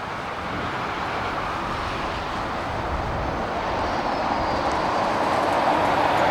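Boeing 787-9 jet engines on final approach, a broad rumble that grows steadily louder as the airliner nears, with a faint high whine falling in pitch in the second half.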